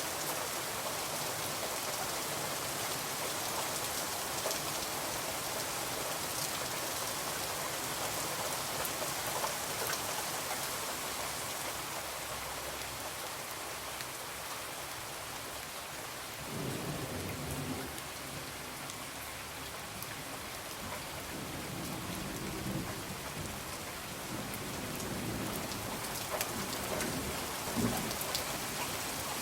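Steady rain with scattered drop ticks. A low rumble of thunder rolls in about halfway through and lingers for several seconds.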